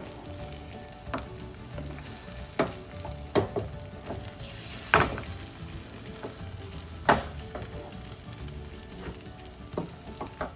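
Beaten egg omelette frying in oil in a pan, sizzling steadily. A cooking utensil knocks against the pan several times, the loudest strikes about five and seven seconds in.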